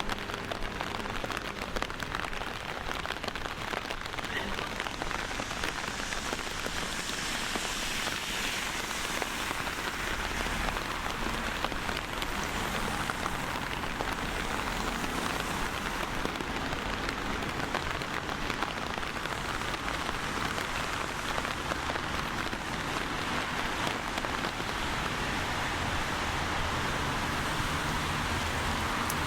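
Steady rain falling, with a dense scatter of fine drop ticks on nearby surfaces. A low rumble comes up near the end.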